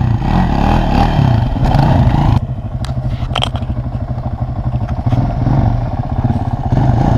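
Honda CRF70's small single-cylinder four-stroke engine revving under throttle as a rider tries to lift the front wheel in a wheelie. It runs hardest for the first couple of seconds, then eases off a little, with a few light clatters about three seconds in.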